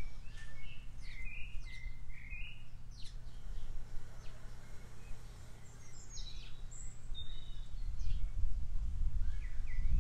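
Small birds chirping in short, scattered notes over a steady low rumble that swells near the end.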